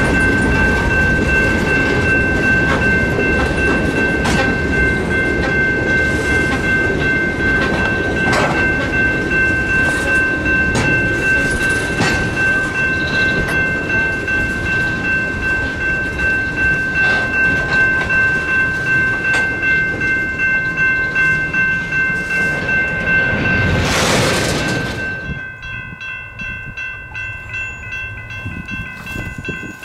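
Freight train passing, its wheels clacking over the rail joints, with steady high ringing tones over the rumble. About 24 seconds in, the noise swells and then drops away sharply as the end of the train goes by, leaving the ringing tones and a fast, regular ticking.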